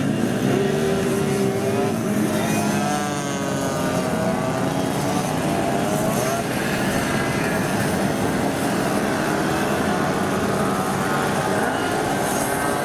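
Several 50cc moped engines riding past one after another, the engine notes overlapping and rising and falling in pitch as they rev and pass.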